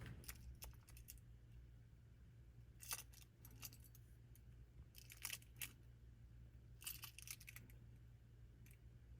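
Faint light clicking and rattling of small hard objects being handled, in four short clusters, over a low steady hum.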